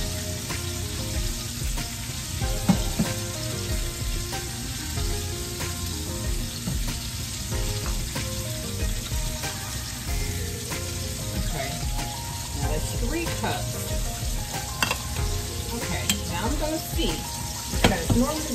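Steady sizzling of food cooking in pans on a stovetop, with hot water poured from a kettle and a few clicks and clinks of kitchen utensils.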